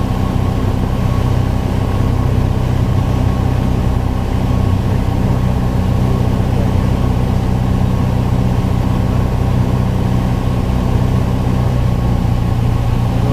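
Piper Archer's four-cylinder Lycoming engine and propeller droning steadily, heard from inside the cockpit.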